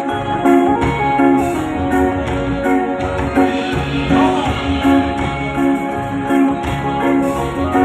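Live band music with a steady beat, played on stage.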